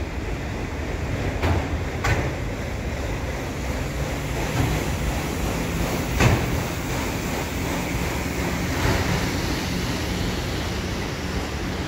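Freight train of autorack cars rolling over a steel railway bridge: a steady rumble of wheels on rails, with a sharp clank about two seconds in and another a little after six seconds.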